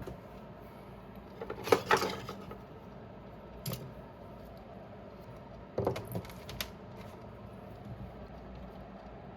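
Small hard tools handled on a workbench: short bursts of light metallic clicks and clatter, about two seconds in and again around six seconds, with a single click between, over a faint steady hum.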